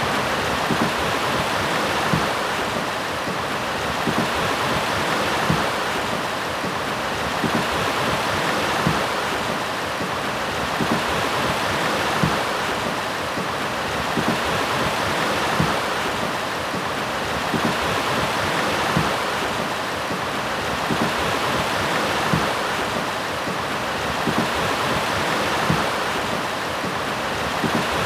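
A mountain river rushing and splashing over rocks in a steady, unbroken flow.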